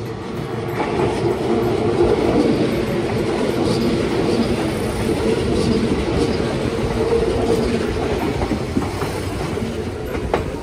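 Kintetsu 26000 series 'Sakura Liner' electric limited express running past close by, a loud rumble of wheels on rail that builds about a second in and eases slightly near the end, with a few faint ticks as the wheels cross the track.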